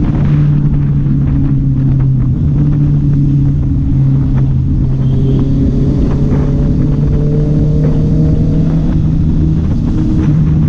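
Honda CB650R's inline-four engine and exhaust running at a steady, fairly high engine speed, its note holding nearly level with only slight shifts. A fainter rising tone comes in partway through.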